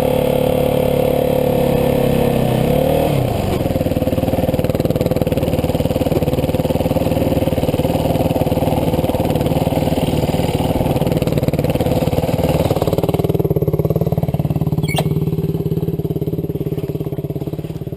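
Dirt bike engine running under load while towing a second bike on a rope, holding fairly steady revs with a dip in pitch about three seconds in, then easing off near the end.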